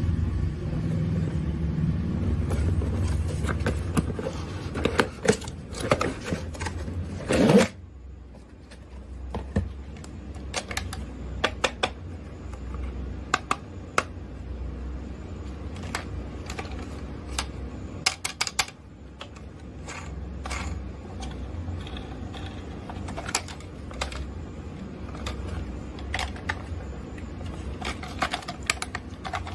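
Scattered small plastic clicks and taps from mini RC toys and their packaging being handled. A low rumble runs under the first several seconds and cuts off abruptly, leaving a faint hum under the clicks.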